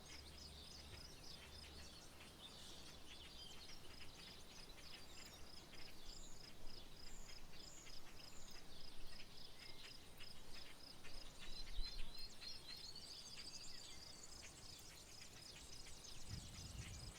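Insects chirping in a steady, fast, even rhythm, with birds calling now and then over it: a few short high notes about halfway through and a run of chattering notes a little later.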